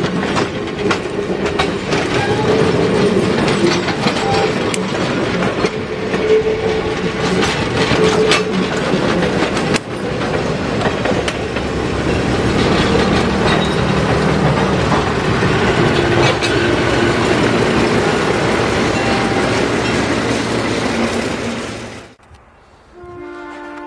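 Heritage train's coaches and caboose rolling past at a level crossing: steel wheels clicking and clattering over the rail joints and crossing amid a loud steady rumble. In the second half the MLW RS-3 diesel locomotive's engine drone joins in. The sound cuts off abruptly about 22 seconds in, and a train horn sounds more quietly near the end.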